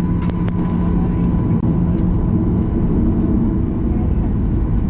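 Steady rumble inside the cabin of a Boeing 737-800 taxiing, with its CFM56-7B engines running, and a thin steady whine over it. A few short clicks come near the start.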